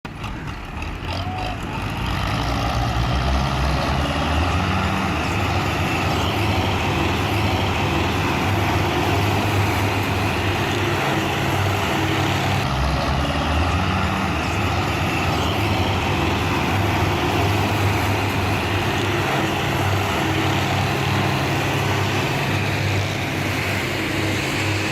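Belarus tractor diesel engines running hard while pulling loaded trailers: a steady low drone that grows louder over the first two seconds, then holds, with a change in tone about halfway through.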